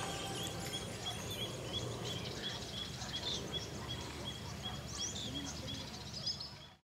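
Birds calling: a short high note repeated about three times a second, with scattered higher chirps over faint background noise. It fades out near the end.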